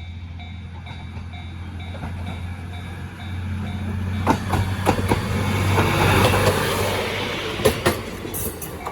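A Japanese level crossing's electronic warning bell dinging in a steady beat while a diesel railcar passes over the crossing. The railcar's engine drone builds to its loudest about six seconds in and drowns the bell, with wheel clacks over the rail joints around four to five seconds in and again near eight seconds.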